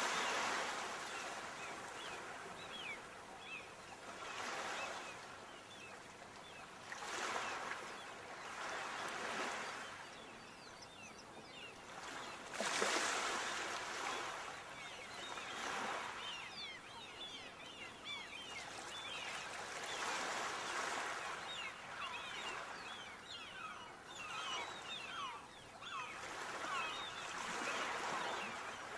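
Sea waves breaking on a shore and washing back, rising and falling every few seconds, the loudest break about 13 seconds in.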